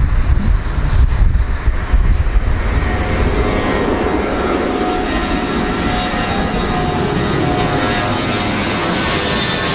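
Aircraft engines running, likely on a large airplane: a deep, gusty rumble for the first few seconds gives way to a steady whine of several tones that rises slightly in pitch toward the end.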